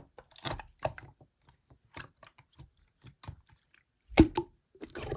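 Slime being squeezed and poked by hand: a string of small sticky clicks and pops, with a louder wet squelch about four seconds in.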